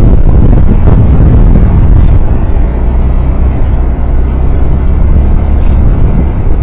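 Loud, steady rumble of a vehicle on the move on the road, with wind buffeting the microphone.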